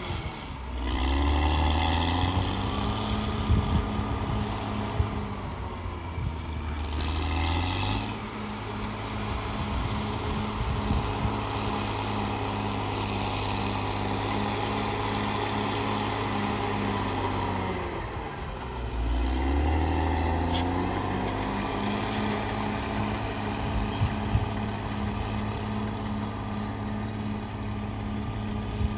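CAT D6R XL bulldozer's diesel engine running hard while working. Its pitch dips and climbs back up twice, just after the start and about two-thirds of the way in, and there are a few sharp knocks.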